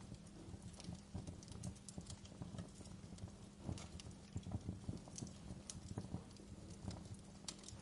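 Wood fire crackling, with irregular sharp pops and soft low thuds.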